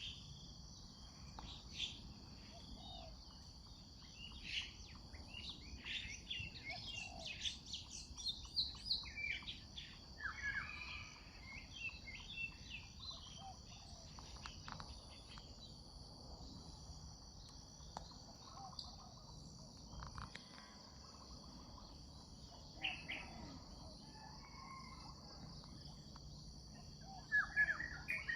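Morning birdsong: several birds chirping and calling on and off, busiest in the middle and again near the end, over a steady high insect drone.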